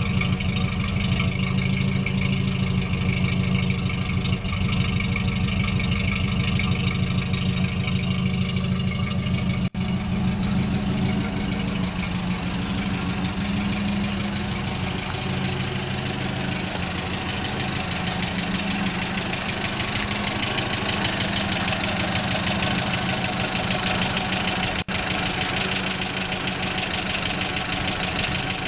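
GAZ-24-10 Volga's inline-four petrol engine idling steadily, with a harsher, noisier edge after about ten seconds.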